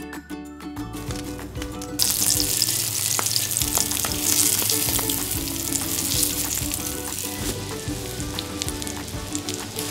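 Starch-dusted salmon pieces sizzling in hot oil in a frying pan, the sizzle getting much louder about two seconds in and holding steady, with a few light clicks.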